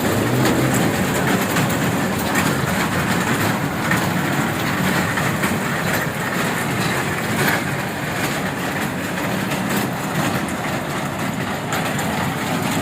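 Passenger train running on the rails, heard from aboard a carriage: a steady rumble and rattle with occasional faint clicks from the wheels.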